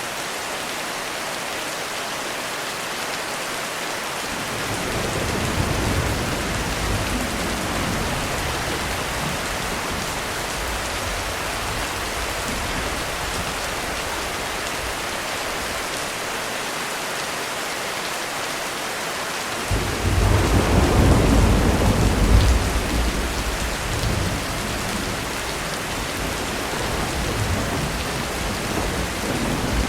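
Heavy rain falling steadily as thunder rumbles. A slow rumble builds about five seconds in, and a louder clap breaks in suddenly about two-thirds of the way through, then rolls on for several seconds.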